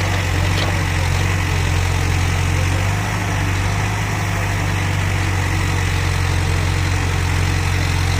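Heavy diesel engine idling steadily, a deep, even hum that holds throughout.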